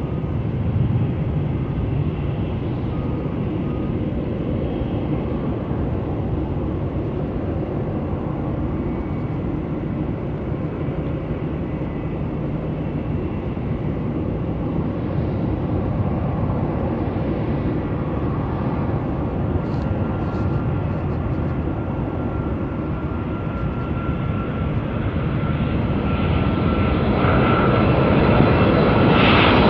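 Jet engines of an approaching Boeing 747-400: a steady rumble with faint whining tones, growing louder and brighter over the last few seconds.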